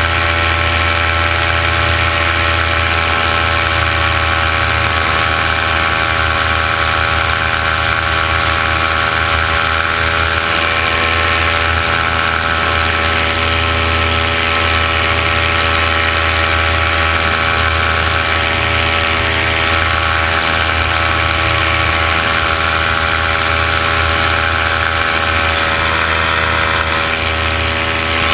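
Steady, unchanging hum and whine of the motors and propellers of the aircraft carrying the camera, heard from on board.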